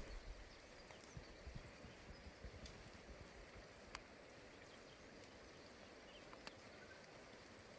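Near silence: faint steady outdoor hiss with a few isolated sharp ticks, about a second, four seconds and six and a half seconds in.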